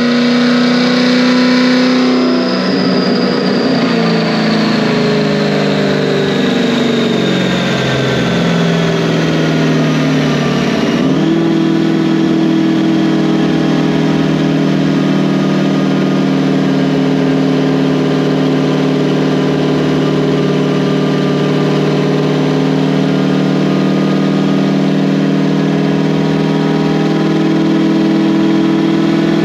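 Supercharged Chevrolet Camaro V8 with a new exhaust. For about the first ten seconds its note falls as the engine slows, a high whine dropping in pitch with it. Then it holds a steady drone, as in a steady cruise.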